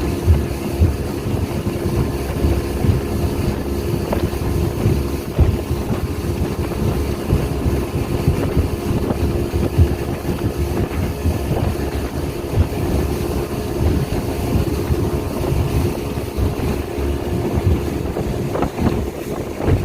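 Speedboat engine running steadily at speed, a constant drone, with wind buffeting the microphone in gusty low rumbles.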